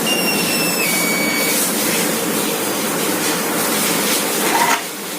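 A high electronic tone held for about a second and a half, dropping a step in pitch partway through, over a steady hiss-like noise. It comes as a hand is held to a home-built infrared temperature-sensing door unit.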